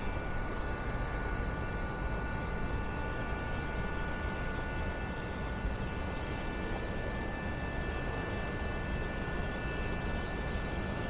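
Steady outdoor hum on a rooftop: a low rumble with several steady high whining tones that do not change, as from rooftop ventilation or air-handling machinery.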